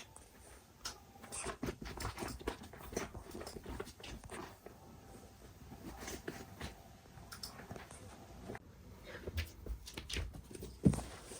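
Kittens playing and knocking about: irregular scuffling, pattering and small clattering knocks, with one sharp thump near the end.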